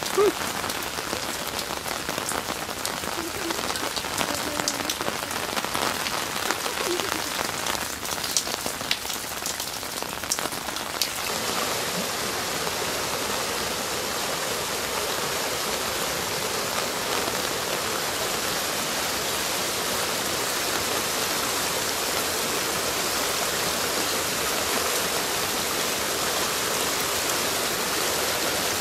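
Heavy rain spattering on hard surfaces, with scattered drop clicks. About eleven seconds in it gives way to a steady, even rush of floodwater pouring down a channel along a brick wall.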